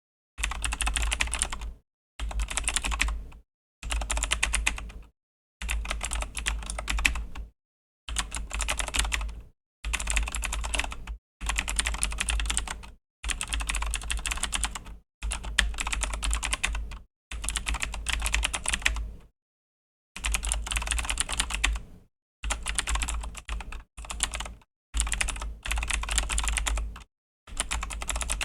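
Razer BlackWidow V3 mechanical keyboard with clicky Razer Green switches, typed on fast in bursts of a second or two, each burst a dense run of key clicks, with short silent breaks between them.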